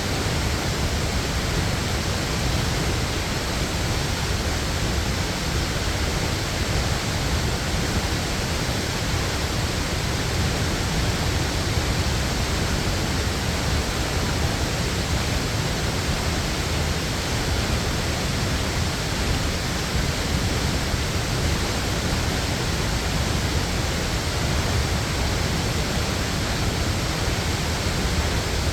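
Waterfall pouring: a steady, loud rush of falling water that holds even throughout.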